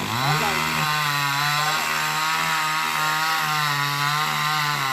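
Two-stroke chainsaw running at high revs, its pitch climbing at the start and then holding steady as it cuts.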